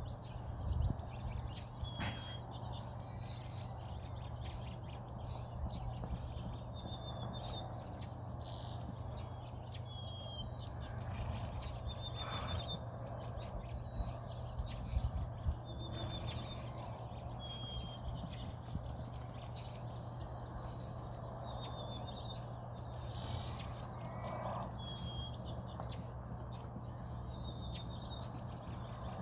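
Small birds chirping, short high phrases repeating every second or two over a steady low hum, with a couple of brief knocks.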